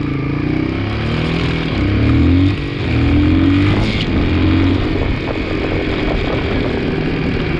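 A 2002 Yamaha 225 motorcycle engine running, revved up and down several times before settling to a steadier run.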